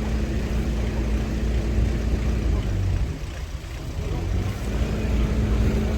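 Kobelco SK200-10 excavator's diesel engine running steadily with a low hum, easing off briefly about three seconds in before picking up again.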